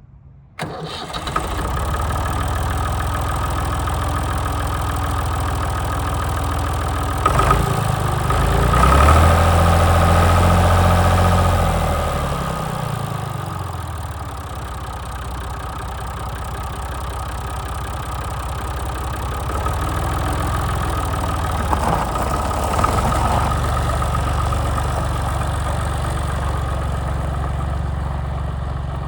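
Massey Ferguson 230 tractor engine running at idle. It is revved up about eight seconds in, held for a few seconds, then settles back to a steady idle.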